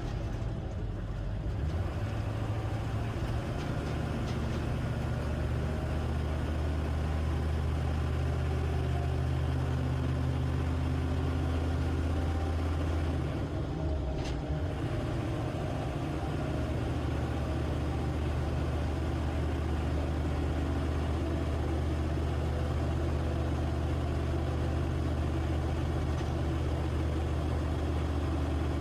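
HMMWV (Humvee) diesel V8 engine running steadily under way, a deep low drone, with a brief dip and change in the engine note about halfway through.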